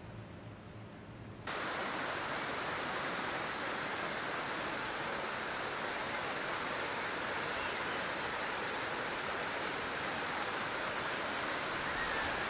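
Steady rushing of falling water. It cuts in abruptly about a second and a half in and holds at an even level.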